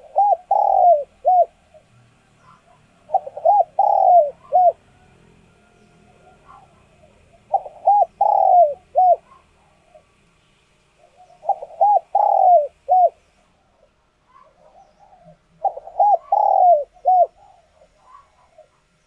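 Spotted dove cooing: a short phrase of four coos, the third drawn out longest, repeated five times at about four-second intervals.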